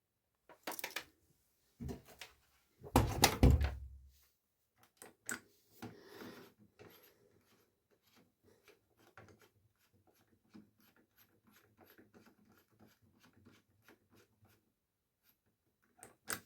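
Handling a Miele Professional PW 6065 washing machine while loading and starting it: a few sharp knocks, then a loud heavy thump about three seconds in, like the door being shut, followed by a long run of faint clicks and ticks and two more knocks near the end.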